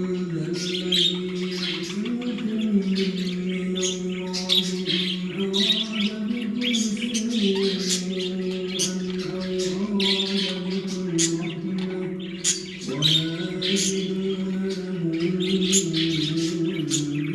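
Many small cage birds chirping and squawking busily together. Underneath runs a steady low droning tone that shifts pitch several times.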